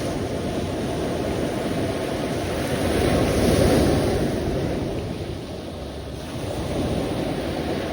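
Sea waves washing in, a steady rushing surge that swells to its loudest about three seconds in, eases off, then builds again near the end.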